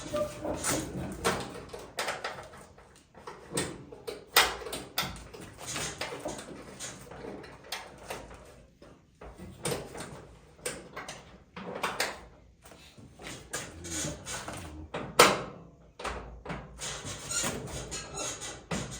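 Irregular metal knocks and clatter from work on a truck cab door and its latch striker, with one sharp knock about 15 seconds in.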